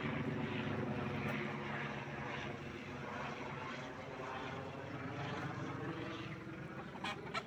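An engine droning steadily at a constant pitch, slowly growing fainter.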